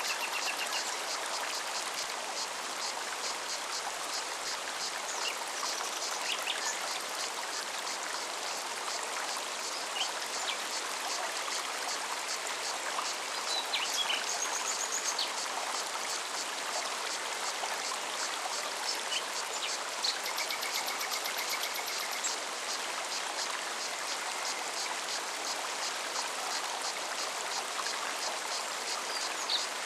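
Forest stream flowing steadily, with cicadas buzzing in a fast, even pulse and a few short bird chirps now and then.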